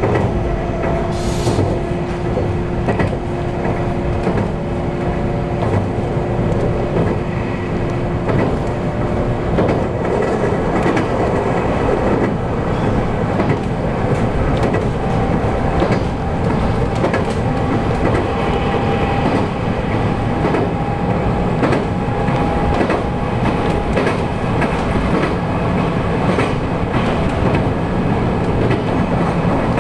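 Running noise of a JR 223 series electric train heard from on board: continuous rumble with wheel clicks over the rails. A steady hum fades out about a third of the way in, and a higher whine rises slowly in pitch through the middle.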